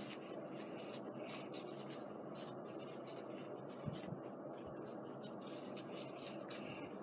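Tissue rubbing and dabbing on a scrapbook paper page to wipe off bled-through paint: a series of light, scratchy strokes, with a soft bump about four seconds in.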